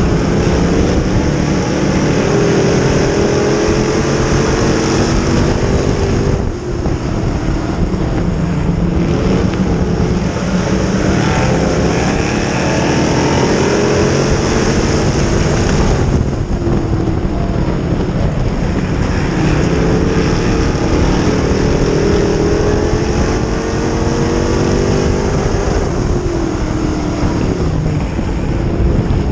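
Dirt modified race car engine at racing speed, climbing in pitch for several seconds at a time under throttle and then easing off, lap after lap, with wind noise on the microphone.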